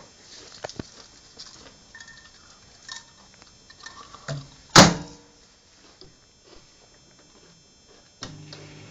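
A microwave oven being loaded and shut: light clicks and knocks, one loud sharp clack a little before the middle, then the oven starts running near the end with a steady hum.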